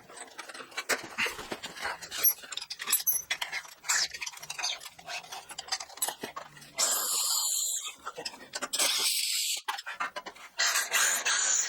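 Workshop clatter of sharp clicks and knocks, like tools and steel parts being handled. These are followed by three harsh bursts of noise, each about a second long, about 7, 9 and 11 seconds in.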